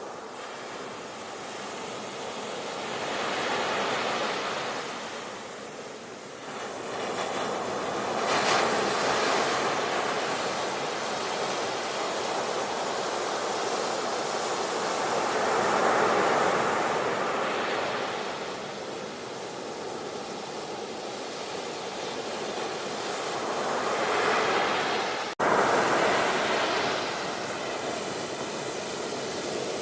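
Sea waves breaking and washing in, the surf swelling and ebbing every few seconds, with a brief cut about 25 seconds in.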